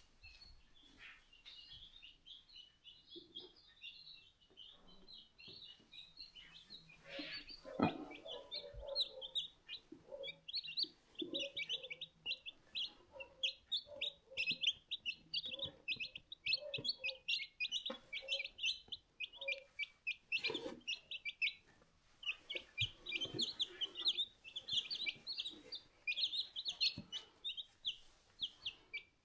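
A box of one-day-old chicks peeping, a dense, continuous run of short high chirps that grows louder about seven seconds in. A few lower, shorter sounds and a single knock about eight seconds in are mixed in.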